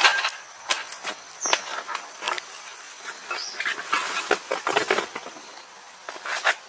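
Irregular rustling, scraping and knocks, as of hands handling things, with two brief high chirps, about a second and a half and three and a half seconds in.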